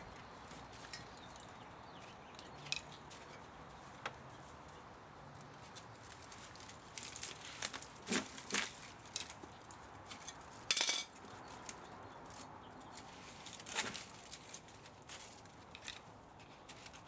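Irregular clinks, taps and clatter of metal parts and hand tools being handled while a spa motor is dismantled for scrap, with a louder clatter about eleven seconds in.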